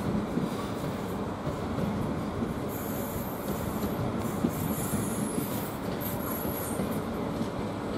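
Class 745 electric multiple unit pulling out of the station, a steady rumble of wheels on rails. High-pitched wheel squeal comes in about three seconds in and fades out near the end.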